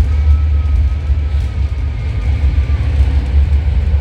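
BART train running on the rails, heard from inside the car: a steady low rumble with a faint high whine over it.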